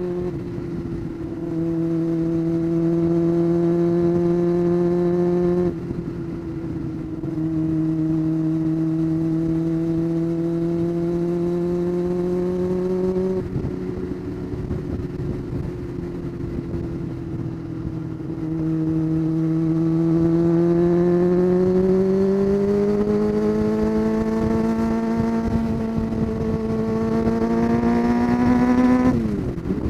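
Honda CBR600 F4's inline-four engine pulling on the throttle, its pitch climbing slowly. The throttle is closed twice with a short quieter spell each time, then comes a longer climb in revs that drops off sharply near the end.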